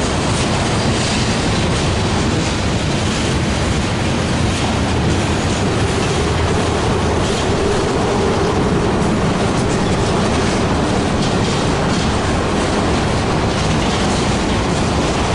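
A freight train's cars rolling past: a steady rumble of wheels on rail, with scattered clicks as the wheels cross rail joints.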